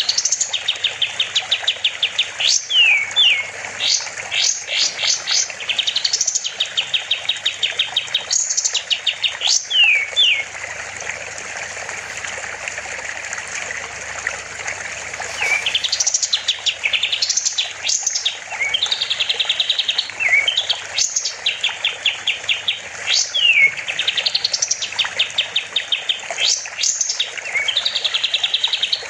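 Kapas tembak songbird singing loudly in bursts of fast stuttering trills and sharp up-and-down whistled notes, with a pause of about five seconds midway before the song resumes.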